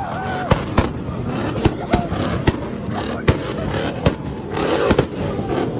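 Sharp, irregular pops and cracks several times a second, typical of a car's exhaust popping and banging, over a crowd talking.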